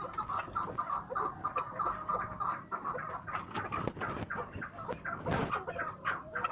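Chukar partridges calling: a quick run of short repeated clucking notes, with louder, more varied calls overlapping in the second half.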